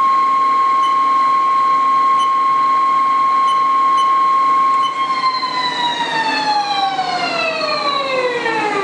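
Haas TL3B CNC lathe spindle drive whining at a steady high pitch, then spinning down: about five seconds in the whine starts falling steadily in pitch as the spindle slows to a stop.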